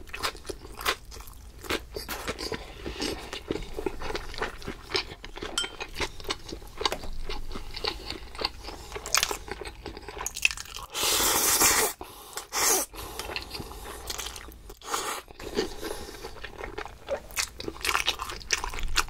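Close-miked eating sounds: a person chewing and biting food, with many small wet clicks and crunches. About eleven seconds in there is one louder, noisier sound lasting about a second.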